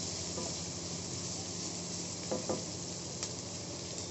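Sliced onions sizzling as they fry in hot mustard oil in a stainless steel kadhai, being lightly browned. A wooden spatula stirs them, with a couple of brief scrapes against the pan about two seconds in.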